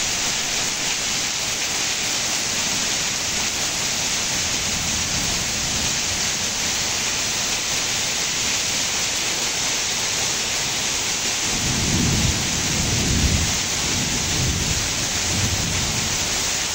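Heavy rain pouring off a roof edge and splashing onto wet concrete, a steady hiss. A low rumble of thunder swells about twelve seconds in and dies away over a few seconds.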